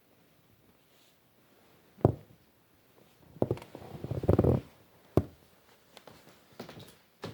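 Banging and knocking on the ceiling from the attic above: a hard knock about two seconds in, a flurry of rapid bangs and rumbling a second later, another sharp knock, and fainter knocks near the end.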